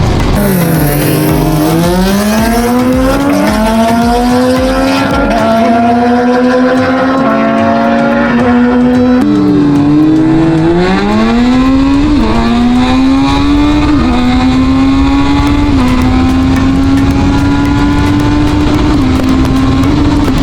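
Inline-four sport motorcycle engine accelerating hard through the gears, its pitch climbing and stepping down at each upshift. About halfway through, the revs fall away and it pulls up through the gears again.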